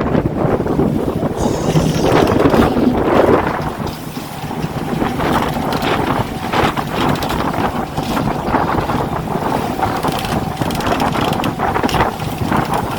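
Fishing boat at sea in rough water: the engine runs steadily under heavy wind noise on the microphone, with frequent short knocks and splashes.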